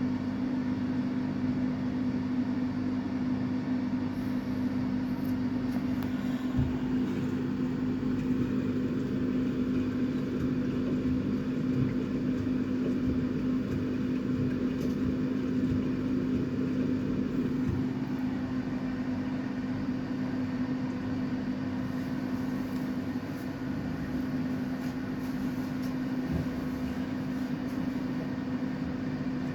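Samsung WF806U4SAGD front-loading washing machine running a hot 95 °C cotton cycle to clean its drum, giving a steady hum with a few soft knocks.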